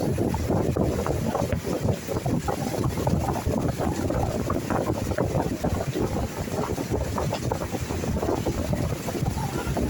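Wind buffeting the microphone outdoors, a steady rough low rumble that rises and falls in quick gusts.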